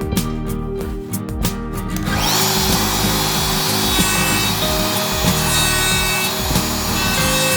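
Satin finishing machine sanding a wooden strip: a steady, dense sanding noise that starts suddenly about two seconds in, with guitar music under it.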